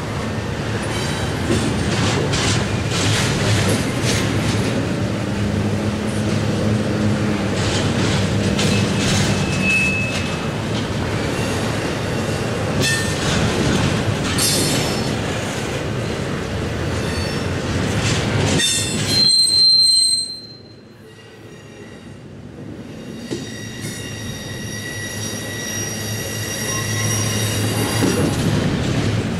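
Double-stack intermodal container cars rolling past: a steady rumble of steel wheels on rail with repeated clicks over the rail joints and thin wheel squeals. About two-thirds of the way through the sound drops away suddenly, then builds again with a steady high-pitched wheel squeal.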